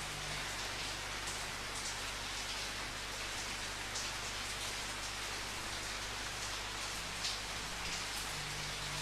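Steady rain falling, an even hiss with scattered louder drops, over a faint low hum.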